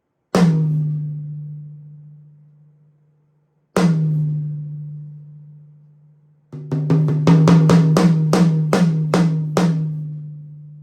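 Close-miked tom on a Yamaha Recording Custom drum kit, struck singly twice and left to ring down slowly each time, then played in a quick run of about a dozen hits that rings out at the end.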